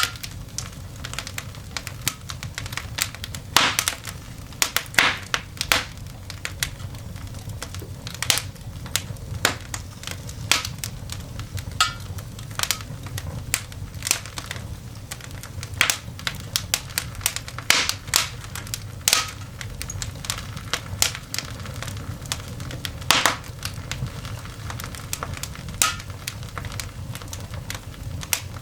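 Coal fire burning in a cast iron dog grate, snapping and popping irregularly, with a few louder pops among many small crackles.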